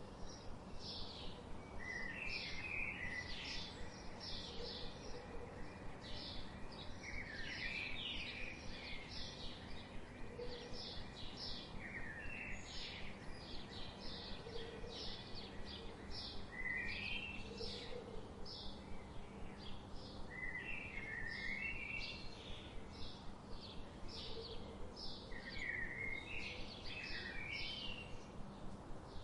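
Forest birdsong: short high chirps repeat about twice a second, with quick lower warbling phrases breaking in every few seconds, over a steady low background hum.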